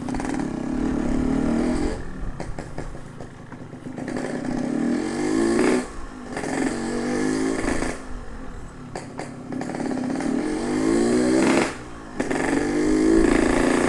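Yamaha RX-King 135 cc single-cylinder two-stroke engine, with a ported cylinder, revving up with a rising pitch and then dropping off the throttle, about five times in a row.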